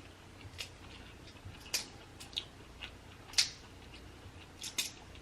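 Close-miked eating and food-handling sounds: a scattered run of about seven short, sharp clicks and smacks, the loudest about three and a half seconds in.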